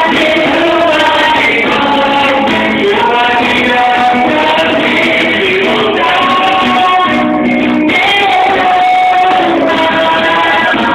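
Christian worship song sung by several voices over instrumental accompaniment, continuous and loud.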